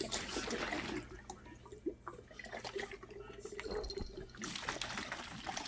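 Water swirling and gurgling through a tornado bottle as it drains from the upper bottle into the lower, louder in the first second and again near the end, with small clicks and drips between.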